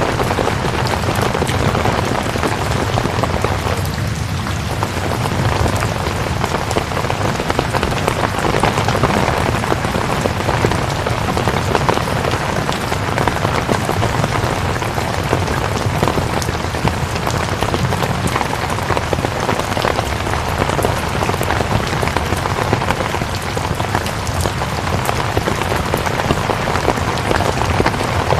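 Steady rain falling on a surface, dense patter of drops.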